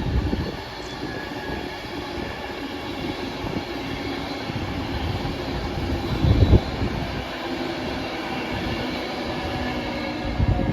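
Avanti West Coast Class 390 Pendolino electric train running through the station, a steady rush of wheels on rail with faint steady tones over it. A brief low thump comes about six and a half seconds in.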